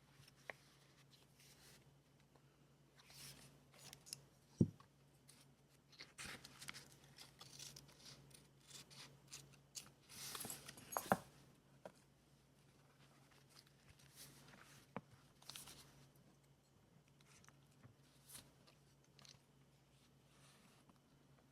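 Faint rustling and crinkling of paper being handled, with a few sharp taps and clicks, over a low steady hum.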